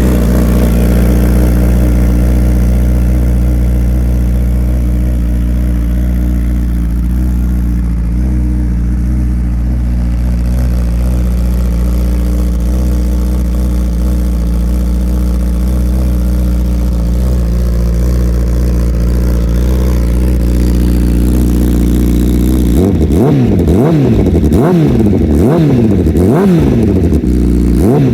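A Honda CBR1000RR Fireblade SP's inline-four engine, just started, idling steadily through its Akrapovic exhaust. In the last five seconds it is revved in a quick run of about half a dozen blips that rise and fall.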